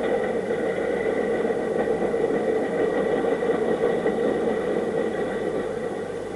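Steady mechanical running noise with a faint high whine, fading gradually near the end.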